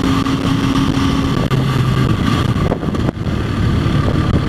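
Motorcycle engine running steadily while riding, under the heavy rush of wind on the microphone.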